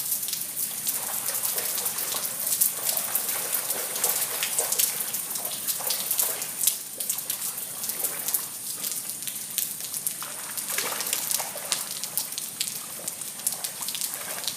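A dog splashing as it wades through shallow floodwater, with irregular splashes and sloshing throughout.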